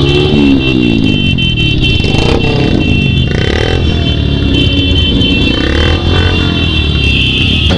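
Loud motorcycle engines revving hard, the pitch rising and falling in the first second or so, then running on with steady road-traffic rumble.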